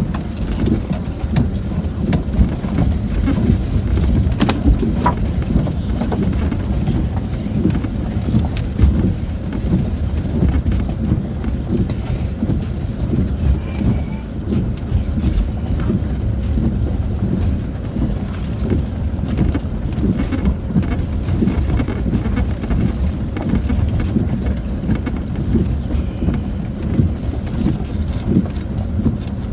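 Land Rover Discovery 4 heard from inside the cabin while driving over rock: a steady low rumble of engine and tyres, broken by frequent short knocks and clunks as the body and suspension jolt over the stones.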